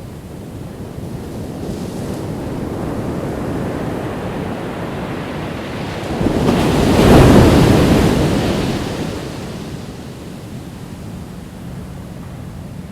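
Ocean waves breaking on a beach: the surf builds gradually, one wave crashes loudest about seven seconds in, then it washes back down to a steady hiss.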